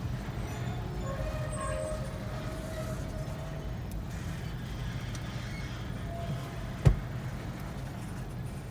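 Steady low vehicle rumble with a faint thin squeal in the first few seconds, and one sharp knock about seven seconds in.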